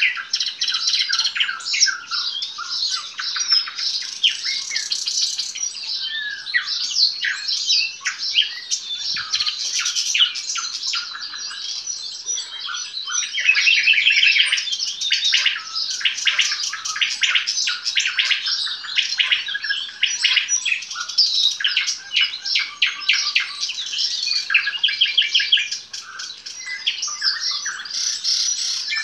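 Nightingale singing continuously: fast trills of rapidly repeated notes alternating with whistled phrases.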